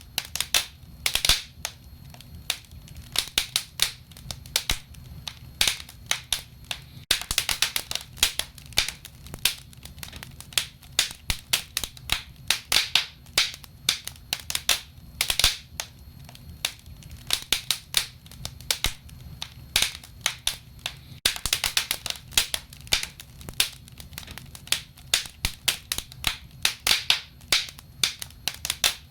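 Wood fire crackling: irregular sharp pops and snaps from burning logs, at times in quick clusters, over a low steady rumble.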